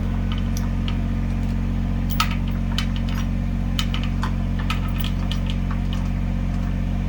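Tractor engine idling steadily, with scattered light clicks and taps over it.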